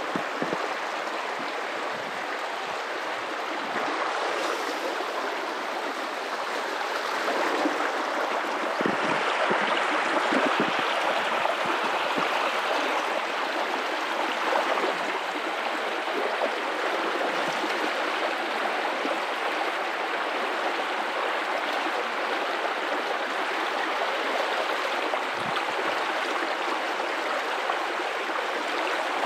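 Guadalupe River water running and gurgling over rocks in a steady rush, swelling a little about a third of the way through.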